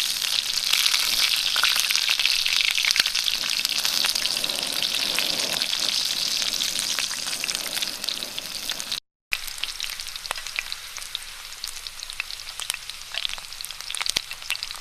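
Food frying in a hot pan: a steady sizzle full of small crackles and pops. It is loud at first, breaks off briefly about nine seconds in, then goes on more quietly with scattered pops.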